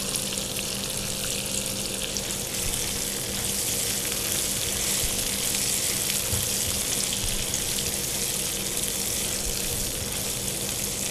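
Raw mango pieces sizzling steadily in hot mustard oil in a frying pan.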